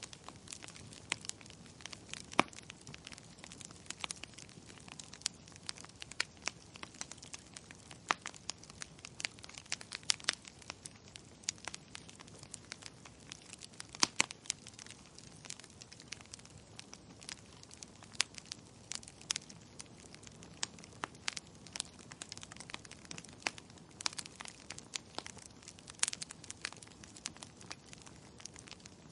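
Burning firewood crackling: irregular sharp pops and snaps over a faint steady hiss, with a few louder pops scattered through.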